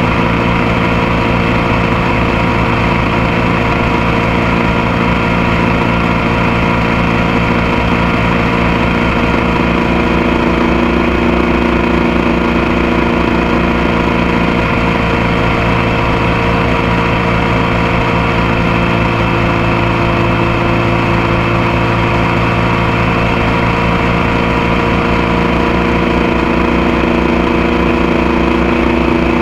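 Motorcycle engine running at a steady, unchanging speed, heard close up from a camera on the passenger foot peg.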